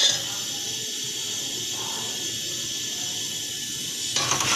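Chicken and onion-tomato masala sizzling steadily as it fries on high heat in an aluminium pot, a thin high hiss. Near the end the steel ladle starts scraping and stirring through it.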